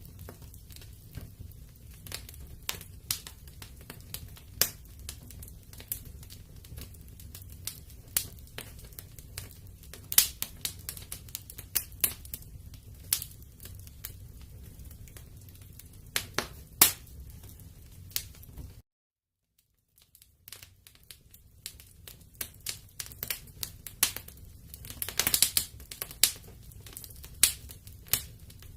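Wood fire burning in a fireplace, crackling with irregular sharp pops over a low steady rumble. The sound cuts out completely for about a second and a half past the middle, then comes back with a quick flurry of crackles.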